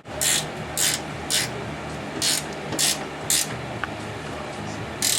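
A hand ratchet wrench worked in short strokes, about seven rasping ratchet runs at uneven spacing, as a bolt and nut are run down on a radiator bracket.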